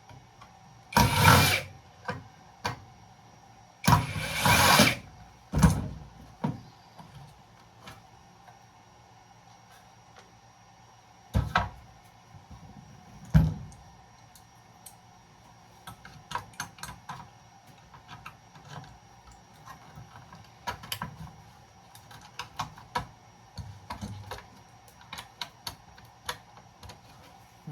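Hand work taking apart a breaker box for scrap. Two loud noisy bursts come in the first five seconds, then a few sharp knocks, then a long run of small metal clicks and taps.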